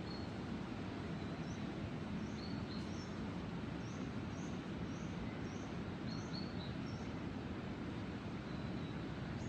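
A small songbird chirping: a run of short, high notes, about two a second, through the middle of the stretch. Under it runs a steady low background noise.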